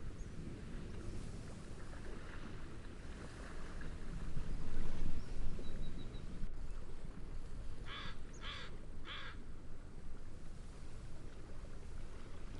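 Steady wind and gentle wave noise that swells about four to five seconds in. Three short, harsh bird calls follow in quick succession, about eight to nine seconds in.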